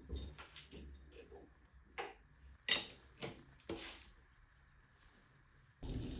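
Irregular light knocks and clicks, about eight in the first four seconds, the sharpest about two and a half seconds in, then a steady noise that starts suddenly near the end.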